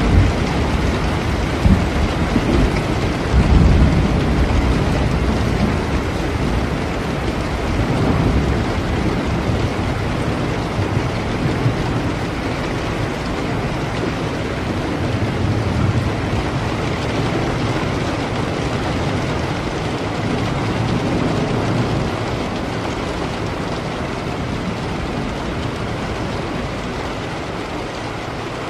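Steady rain with thunder. A low rumble fills the first few seconds and dies away, with a sharp crack about two seconds in and fainter rumbles rolling in later.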